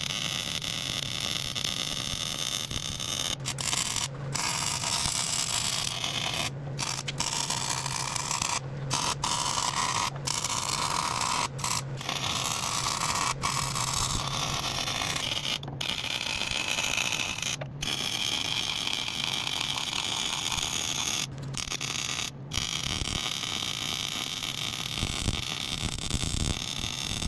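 Arc welding a vertical-up bead: a steady crackling sizzle from the arc with a low hum under it, broken by brief pauses every few seconds.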